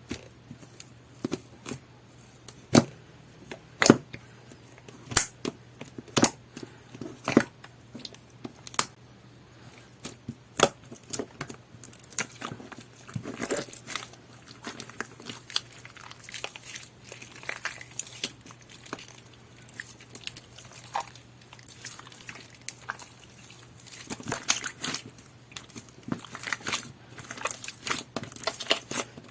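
Two-tone slime being worked by hand: sharp pops and clicks about once a second at first, then denser crackling and squishing from about twelve seconds in.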